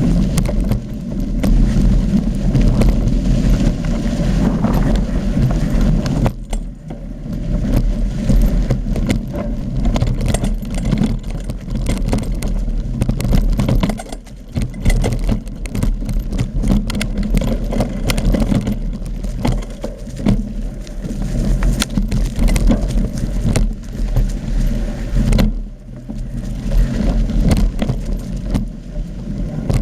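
Mountain bike rattling and clattering over a rough trail, with wind rushing and buffeting on the camera's microphone.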